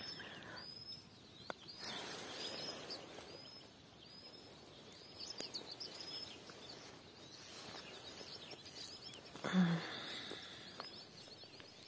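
Small birds chirping, one repeating a short high call over and over about once or twice a second, over a faint outdoor hiss. A brief low sound about nine and a half seconds in is the loudest moment.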